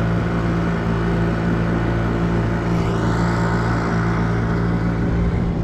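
Small fishing boat's motor running steadily under way, a constant low engine drone.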